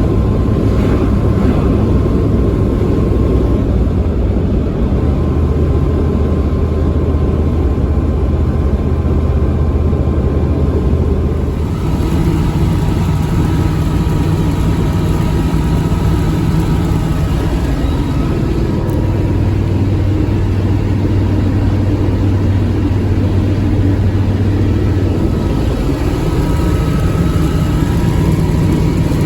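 Chevy V8 in a Range Rover running under load while towing a heavy trailer at road speed, a steady drone through a Walker Quiet-Flow muffler with road noise. Its pitch steps up about twelve seconds in after a brief dip, drops back later, and rises again near the end.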